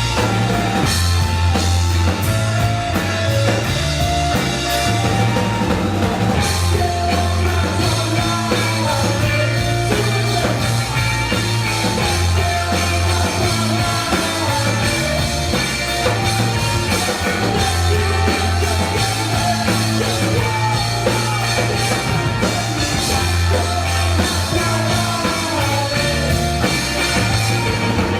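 Live rock band playing at full volume: drum kit, a pulsing bass line and electric guitars.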